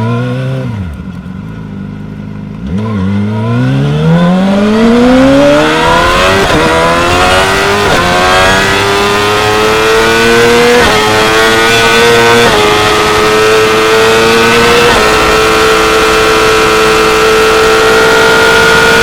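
2016 Yamaha R6's inline-four engine at full throttle. It blips briefly at the start, then pulls hard in a long climbing scream from about three seconds in, with quick drops in pitch at each of several upshifts. In the last few seconds it holds at a steady high pitch.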